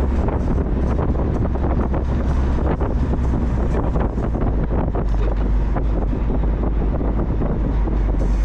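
Wind buffeting the microphone in gusts over the steady low drone of a Mazda Miata driving along.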